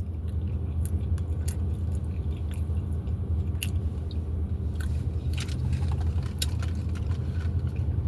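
Close-miked chewing and mouth sounds of a person eating a taco, with scattered wet clicks over a steady low hum.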